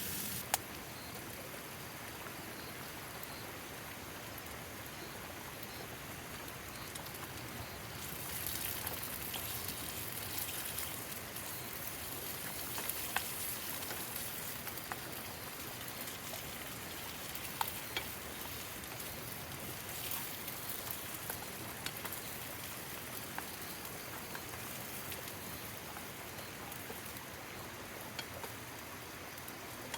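Food sizzling in a pan while rain falls steadily, a continuous hiss with scattered sharp crackles.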